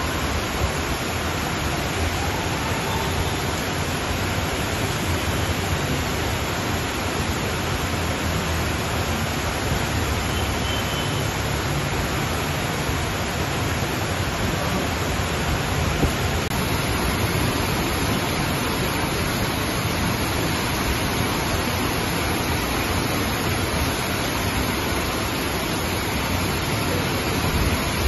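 Heavy monsoon downpour: a dense, steady rush of rain.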